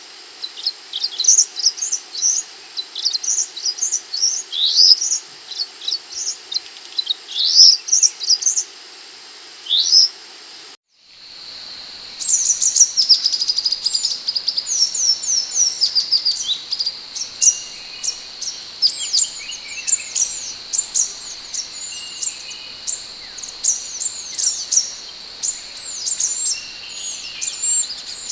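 Scarlet minivet giving rapid, high, sweeping chirps in quick series. About eleven seconds in, the sound cuts out briefly. It comes back as denser chirping over a steady high-pitched hum.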